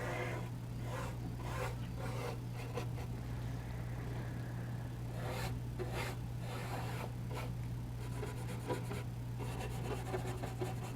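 Small flat paintbrush sweeping across charcoal paper, blending charcoal in a series of soft, short strokes, with a pause of a couple of seconds midway.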